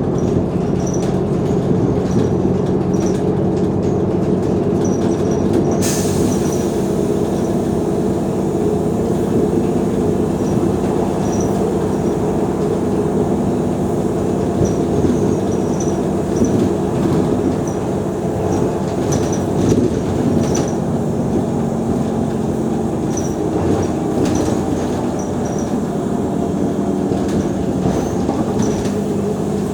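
Mercedes-Benz O345 Conecto G articulated city bus running, its diesel engine giving a steady low drone whose pitch shifts slightly as it goes.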